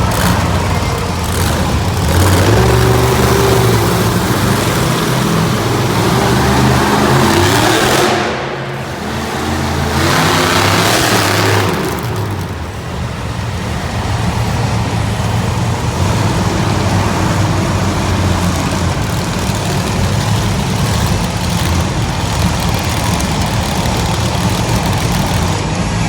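Monster truck engines running and revving, loud and continuous, dipping briefly about eight seconds in and again about twelve seconds in.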